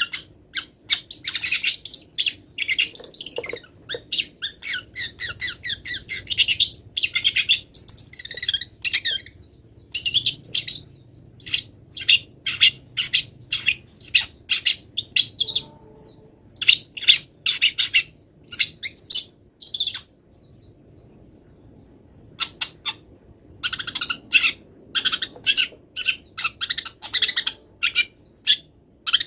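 Long-tailed shrike (cendet) singing a rapid, chattering song packed with mimicked calls of wild birds, in dense bursts of high chirps and trills, breaking off for about three seconds in the second half before starting again.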